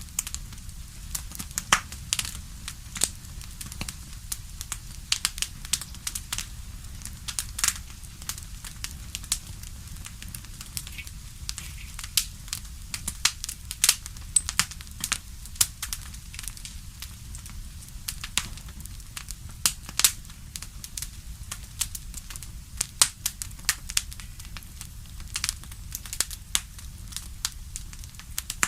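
Wood fire in a fireplace crackling, with irregular sharp pops, several a second and some much louder than the rest, over a low steady rumble.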